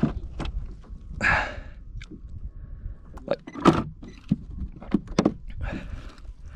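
Handling noises aboard a plastic fishing kayak: scattered knocks, clicks and thuds of gear and a landed fish against the hull, with a short rustling burst about a second in.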